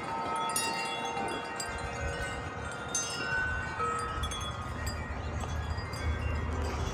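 Several wind chimes ringing in the wind, overlapping sustained tones at different pitches struck again and again. A low wind rumble on the microphone builds from about two seconds in.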